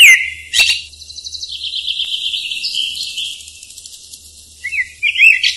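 Bird chirps and whistles, as for a cartoon: a falling whistle at the start, a fast chattering trill through the middle, and wavering chirps near the end.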